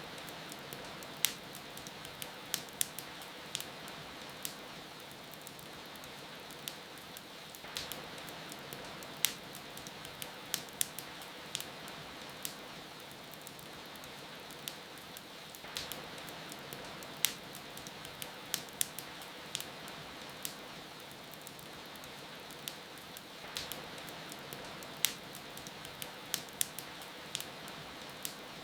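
Wood fire crackling, with sharp irregular pops and snaps, over a steady hiss of rain.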